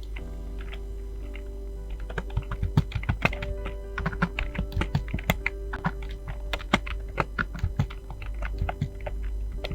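Fast typing on a computer keyboard: rapid, irregular key clicks, a few at first and then a dense run from about two seconds in, over background music.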